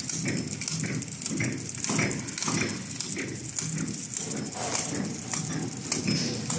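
Automatic four-side sealing packaging machine running, with a steady rhythmic clacking about twice a second as it cycles.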